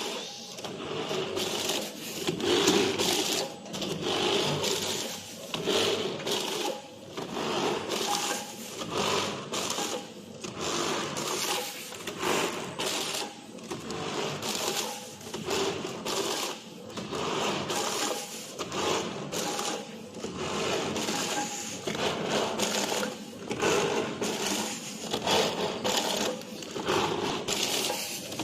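Automatic dual-head volumetric cup packaging machine running, its mechanism going through a repeating cycle about every second and a half.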